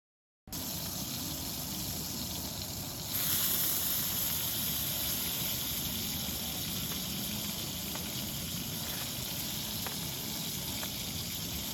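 Steady rain, getting louder and brighter about three seconds in.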